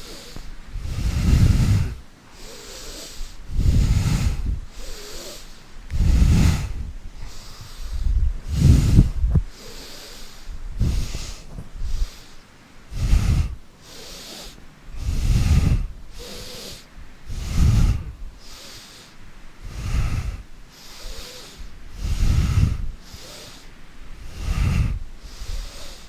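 A person breathing forcefully in and out close to the microphone, one breath puff about every two seconds in a steady rhythm, the exhales buffeting the mic. These are deep breaths paced to a yoga spinal-flexing movement.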